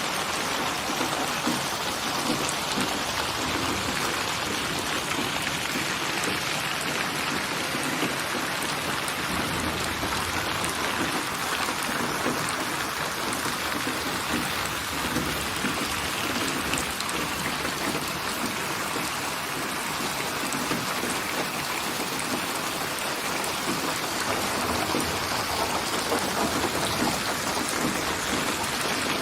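Steady rain falling, an even hiss of many drops that keeps on without a break.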